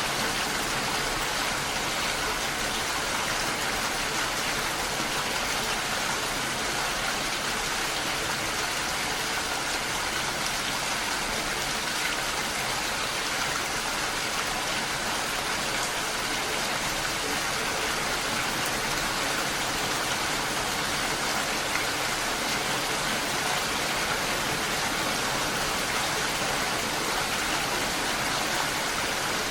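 Steady, even rain falling, a continuous hiss with no distinct drops or pauses.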